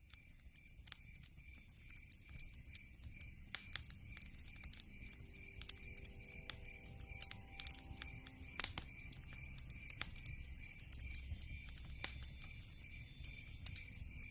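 Campfire crackling with frequent sharp pops over a low rumble, fading up at the start. A steady, high, pulsing chirp of night insects repeats about three times a second behind it.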